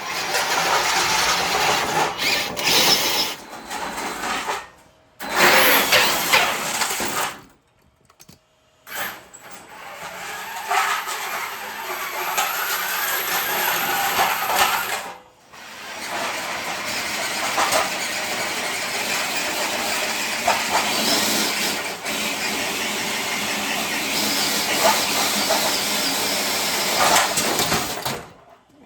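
Radio-controlled trucks pulling a dead-weight sled: a motor and drivetrain whine rising and falling with the throttle over scraping and grinding, cutting off abruptly a few times.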